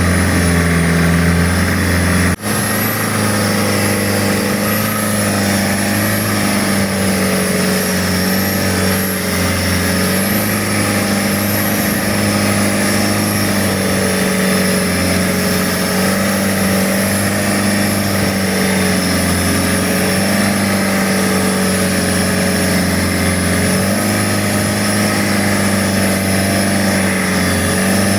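Boat engine running steadily under way, its pitch wavering slightly, with a brief break about two seconds in.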